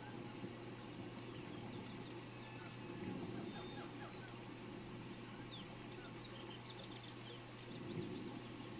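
Steady rain hiss with a few short bird chirps scattered through the middle.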